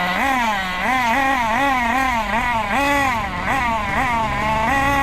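Small nitro engine of a 1/8 RC buggy, an RC Mix21, revving up and down over and over as the throttle is blipped, about two to three rises in pitch a second.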